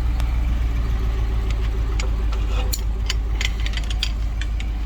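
Ram 3500 service truck's gasoline engine idling with a steady low drone, kept running to power the crane, with scattered light clicks and ticks in the second half.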